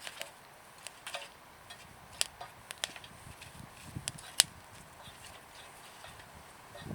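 Wood fire crackling in a homemade bonfire stove: sharp, irregular pops and snaps, the loudest about four and a half seconds in.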